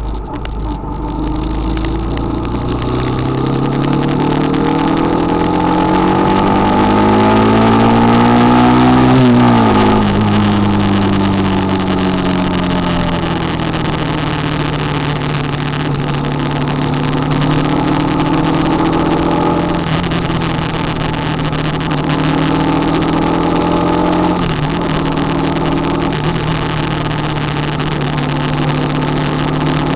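Motorcycle engine pulling hard through the gears: its pitch climbs steadily for several seconds, drops sharply at an upshift about ten seconds in, then climbs again with further shifts about twenty and twenty-five seconds in.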